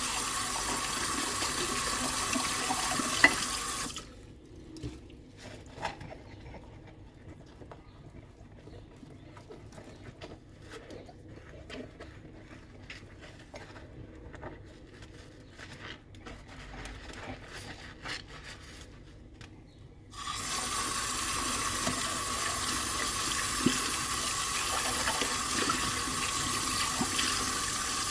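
Kitchen tap running into a sink, shut off about four seconds in. Quiet clicks and rubbing of dishes being handled and scrubbed follow, then the tap is turned back on about twenty seconds in and runs steadily.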